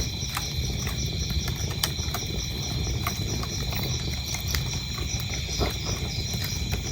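Wood fire burning in a fireplace, with a low steady rumble and irregular sharp crackles and pops, while crickets chirp in a steady, even rhythm.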